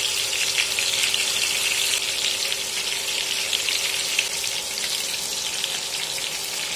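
Stuffed brinjals frying in hot mustard oil in a frying pan: a steady sizzle with fine crackling that eases off a little, over a faint steady hum.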